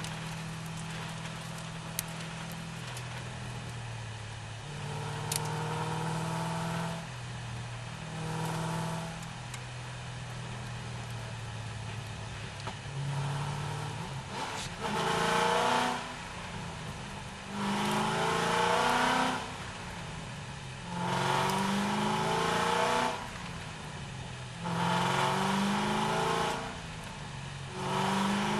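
C6 Corvette's V8 engine idling steadily, then blipped twice. From about halfway it is given a series of five bursts of throttle, each rising in pitch for a second or two before dropping back, roughly every three seconds.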